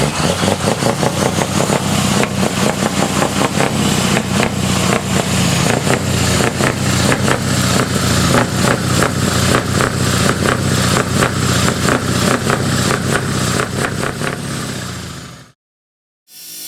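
Large truck engine running, loud and steady with a regular pulsing about four times a second; it cuts off suddenly near the end.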